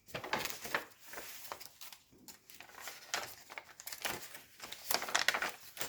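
Pages of a handmade journal being turned and handled: irregular paper rustles and soft flicks.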